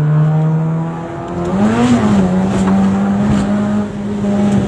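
A vehicle engine running hard, its pitch steady at first, then climbing about a second and a half in and holding at a higher note as it accelerates.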